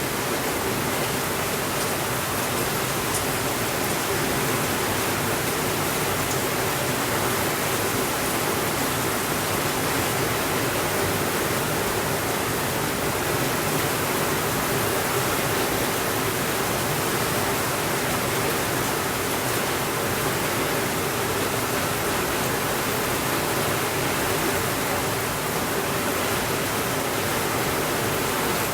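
Steady rainfall: an even, unbroken hiss that does not rise or fall, with no thunder.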